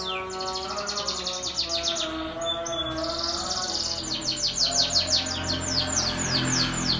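Domestic canary singing a fast trilled song: rapid runs of repeated downward-sweeping high notes, broken about three seconds in by a buzzy rolled trill, then more quick sweeping notes.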